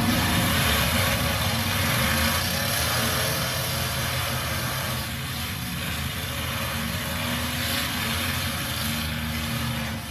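Engines of demolition derby trucks running steadily, a loud mix of engine rumble and noise, easing slightly about halfway through.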